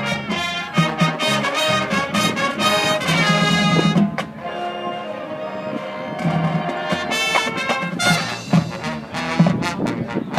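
Marching band playing: brass chords over drum hits, easing into a softer held passage about four seconds in, then building back to loud accented hits near the end.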